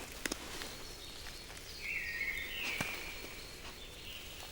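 Forest ambience with a bird calling a few short whistled notes, plus a few sharp clicks: a quick pair about a quarter second in and one near three seconds in.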